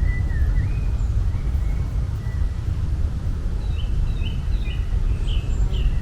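Birds chirping over a steady low rumble. The chirps are sparse at first, then come as a quick run of short chirps in the second half.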